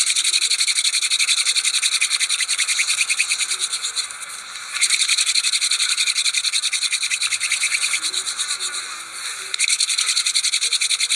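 Insects trilling loudly in fast, even pulses, the chorus swelling in three stretches with sudden starts and easing between them.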